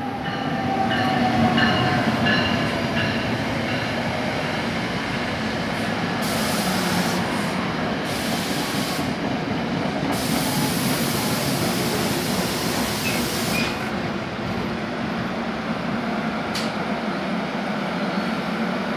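NJ Transit push-pull commuter train arriving at the station: the ALP-46A electric locomotive passes close by, loudest about two seconds in, with a tone falling in pitch. Then the Comet V coaches roll past with a steady rumble of wheels on rails, and a hiss rises and falls twice midway.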